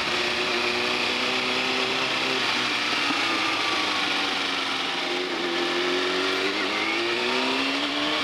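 Kawasaki Ninja ZX-6R inline-four engine running at steady revs under way, with a constant rush of wind on the microphone. The engine pitch sags about five seconds in and climbs again near the end.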